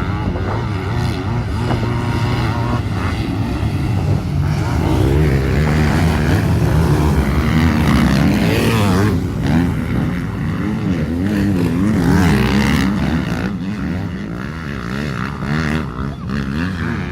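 Racing motorcycle engines revving, their pitch rising and falling again and again, loudest around the middle.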